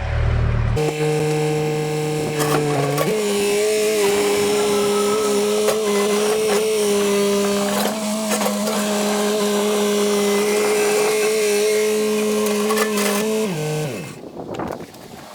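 Yanmar Vio70 compact excavator running under load as it is driven and turned, its hydraulics whining steadily over clanking from the tracks. The whine steps up in pitch about three seconds in and winds down to a stop near the end.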